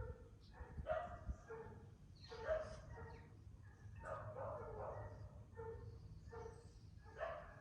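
A dog barking over and over, about one or two barks a second, over a low steady rumble.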